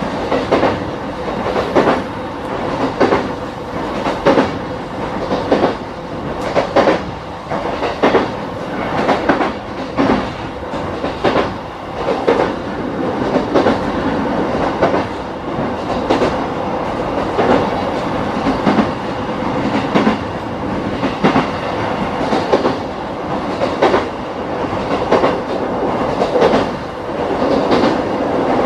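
JR East E233-5000 series electric train running at speed, heard inside a motor car: a steady rumble with regular clickety-clack as the wheels pass over rail joints, about once a second.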